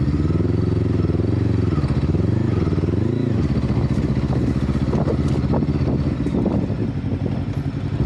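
Motorcycle engine running, its revs rising and falling several times in the first few seconds, then holding steadier, with a few short clicks near the middle.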